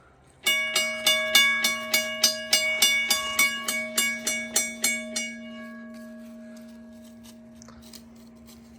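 Railroad crossing bell switched on, ringing with quick, even strikes, about two and a half a second. After about five seconds the striking stops and the last ring dies away.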